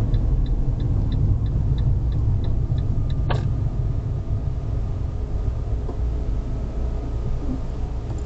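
Car engine idling in the cabin with a steady low rumble, with the indicator ticking about three times a second for the first three seconds. It stops, and a single sharp click follows.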